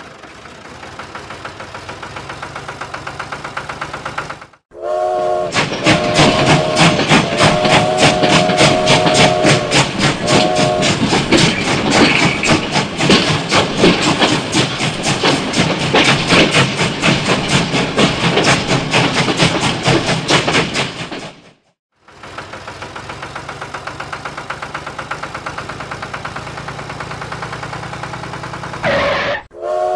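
Toy steam locomotive running on plastic track with a loud rapid chuffing clatter, its chord-like whistle sounding three times between about five and eleven seconds in. Before and after it, quieter, steady, rhythmic engine chugging of a toy tractor, each part starting and stopping abruptly.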